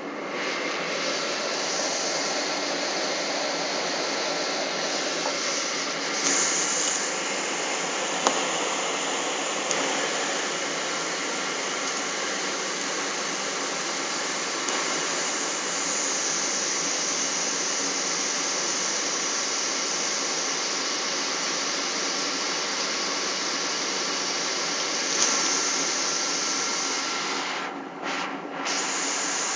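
Boeing 777 jet engines at high thrust, heard inside the cabin as a loud, steady rushing noise. It steps up sharply at the start, as the thrust comes up for the takeoff roll, and dips briefly twice near the end.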